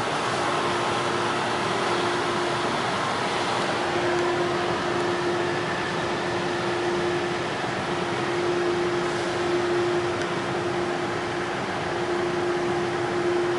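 Car wash dryer blowers running with a steady rushing hiss and a constant hum.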